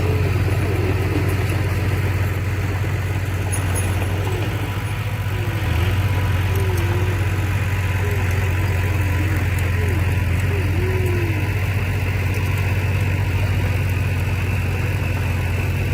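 Heavy diesel engine of earthmoving machinery running steadily with a deep drone. It eases off slightly about five seconds in and picks back up a second later.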